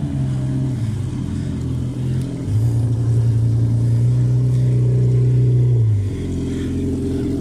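Jet ski engine running with a steady low drone. It gets louder about two and a half seconds in and falls back about six seconds in.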